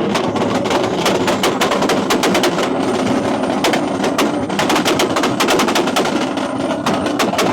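Twin-turbo LS V8 held at high revs on a two-step launch limiter, its exhaust firing a rapid, uneven stream of loud pops and bangs over the engine note.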